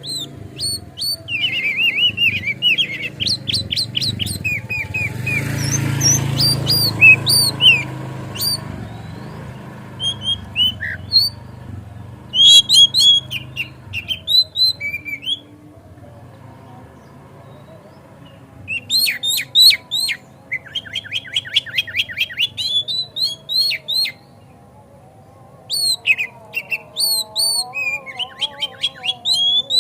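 Oriental magpie-robin (kacer) singing in rapid bursts of high, sharp, repeated notes, in four phrases separated by short pauses. A low rumble sits under the song about five seconds in.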